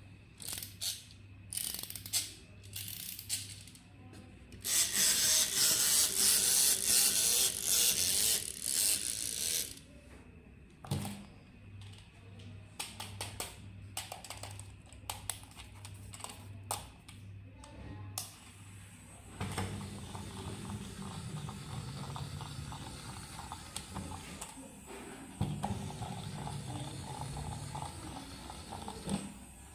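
Plastic electronic toy being handled, with quick clicks and ratcheting and a loud rasping stretch in the first half. For roughly the last ten seconds a small geared toy motor runs steadily.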